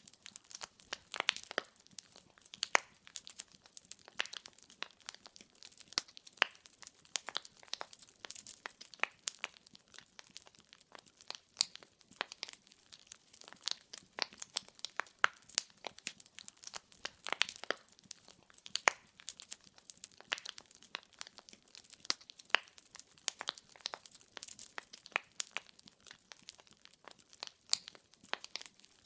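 Wood logs burning in a fireplace, crackling and popping in a dense, irregular run of sharp snaps.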